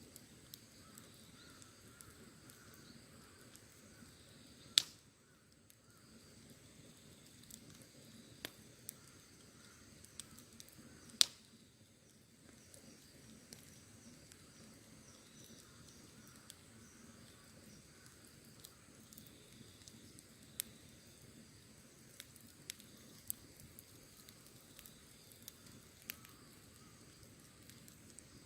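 Wood bonfire crackling with scattered small pops and two sharp, loud snaps, about five seconds in and again about eleven seconds in.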